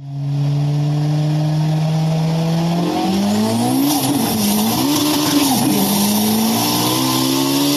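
Sports car engine sound effect revving, its pitch holding and then rising and falling several times, over a steady hiss.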